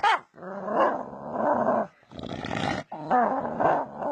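A dog growling and grumbling in a string of drawn-out, rough sounds with short gaps between them; the last one wavers up and down in pitch.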